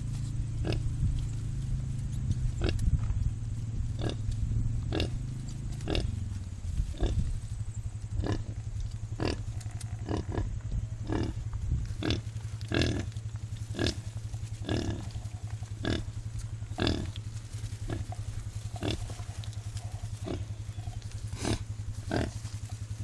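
American Guinea Hog sow grunting in short, regular grunts about once a second, over a steady low hum.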